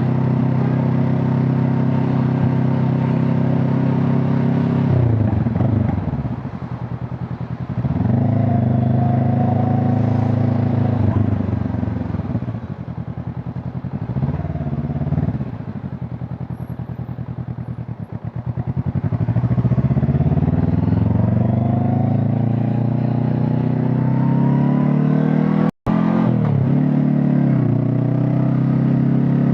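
Honda CB500 Hornet's parallel-twin engine and exhaust on the move: a steady cruising note that eases off and picks up again several times. A long, steady climb in revs follows, then it settles back to a steady run.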